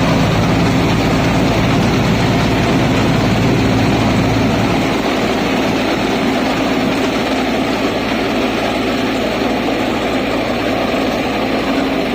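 Thai Seng Yont 'Chao Phayu 4.0' rice combine harvester running steadily, engine hum over machinery noise. The deep engine hum weakens about five seconds in.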